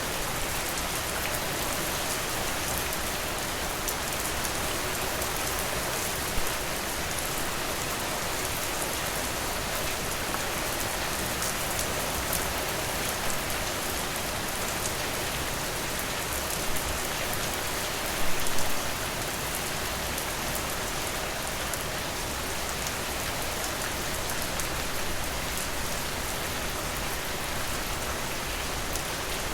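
Steady rain, falling evenly, with a few louder single drops and a short cluster of heavier drops about two-thirds of the way through.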